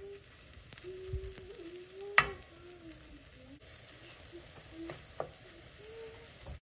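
Fritter batter sizzling in hot oil in a frying pan as spoonfuls are dropped in, with a sharp clack of the metal spoon against the pan about two seconds in and a lighter tap about five seconds in. The sound cuts off suddenly near the end.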